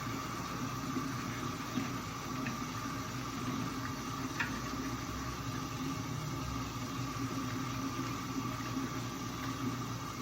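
Steady background noise with a constant hum and a few faint clicks.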